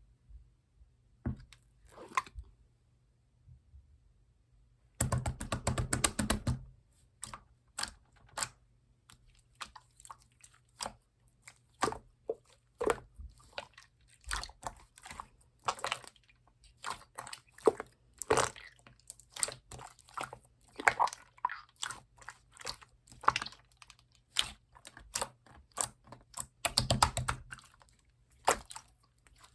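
Green translucent slime being squished and poked by hand, making irregular sticky clicks and pops, with a dense run of them about five seconds in and again near the end.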